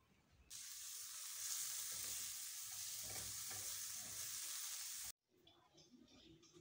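Small wild mushrooms sizzling as they fry in a metal pan and are stirred with a spatula. The sizzle starts suddenly about half a second in and cuts off abruptly about five seconds in.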